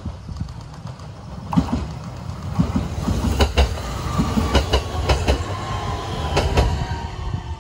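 Train passing close by, its wheels clicking over rail joints in quick pairs over a low rumble, with a faint whine falling in pitch in the second half.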